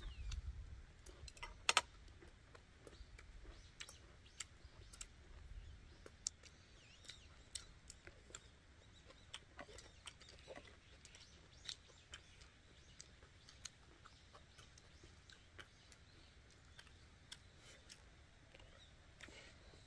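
Faint eating sounds: soft, irregular chewing and mouth clicks, with a low wind rumble in the first few seconds.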